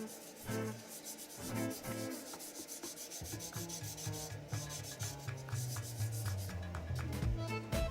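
Sandpaper rubbing over a wooden bowl as it is sanded, a steady hiss of repeated short strokes.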